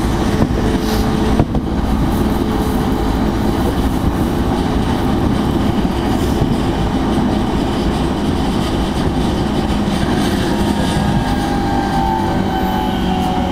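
Electric commuter train running on the rails, a steady loud rumble heard from inside. From about ten seconds in, a whine slowly falls in pitch as the train slows toward the station.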